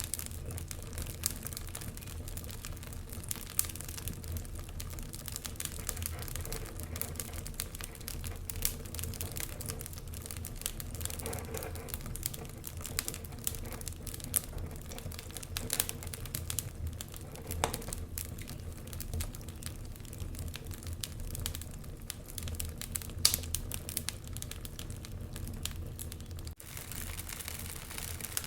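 Wood fire burning in a fireplace: a steady run of small crackles and pops over a low rumble, with one sharper pop about three-quarters of the way through.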